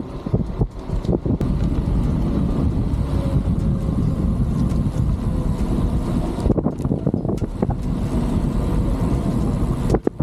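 Wind rushing over the microphone and the rumble of a bicycle riding over a rough trail, with scattered knocks and rattles in the first second or so and again in the last few seconds.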